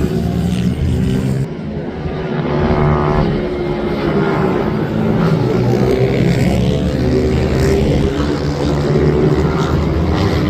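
Racing minibike engines running at high revs, several at once, their pitch rising and falling as they accelerate and pass. About a second and a half in the sound dips briefly, then the engines build again.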